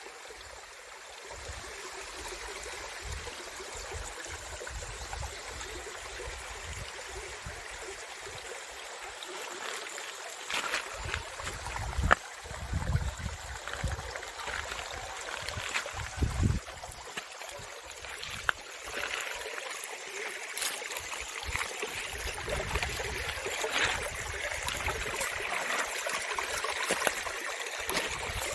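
Steady rushing of a stream, growing a little louder, with scattered sharp knocks and patches of low thumping.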